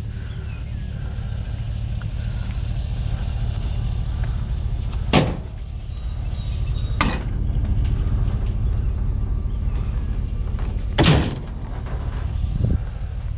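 A vehicle's engine running with a steady low rumble, broken by sharp knocks or clatters about five, seven and eleven seconds in, and a lighter one near the end.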